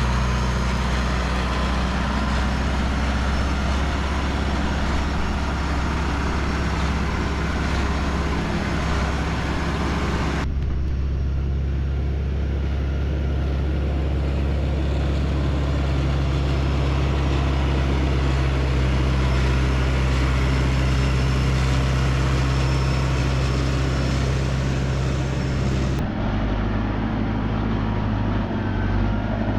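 A tractor engine running at a steady speed, a low, even hum with no change in revs; the sound shifts abruptly twice, about a third of the way through and near the end.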